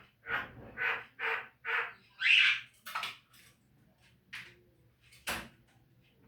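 Javan myna (jalak kebo) giving a quick series of harsh calls, about six in the first three seconds, the loudest about two and a half seconds in, then a few spaced single calls.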